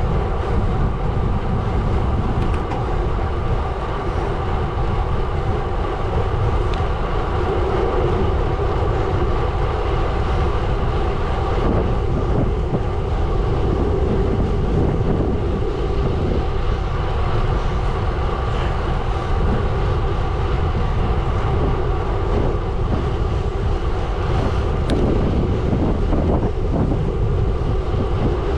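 Gravel bike's tyres rolling over a gravel road: a loud, steady rumble that holds unbroken throughout.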